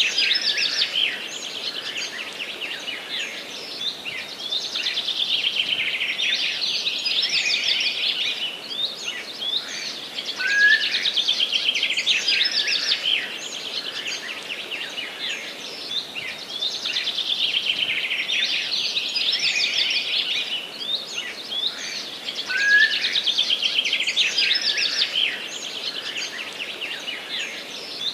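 Forest birds singing, a dense run of chirps and trills with a rising whistled note about every six seconds, the same pattern repeating throughout.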